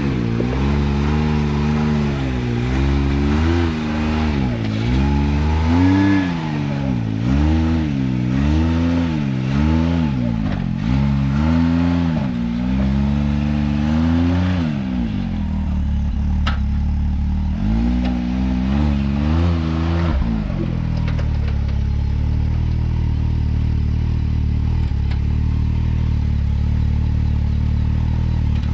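Can-Am X3 side-by-side engine revving up and down about once a second as the throttle is worked on a rocky ledge climb. About two-thirds through, after a last short run of revs, it settles into a steady, lower running sound.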